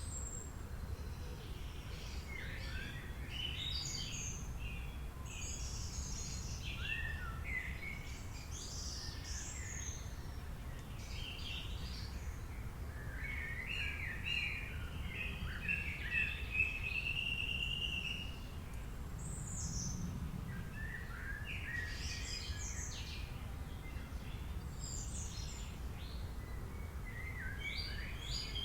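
Several birds chirping and singing over a steady low background rumble, with short calls in clusters and one longer warbling phrase about halfway through.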